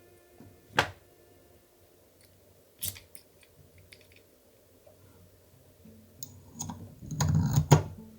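Small hard model-kit parts being handled and fitted: a sharp click about a second in, another near three seconds, then a cluster of clicks and clatter near the end.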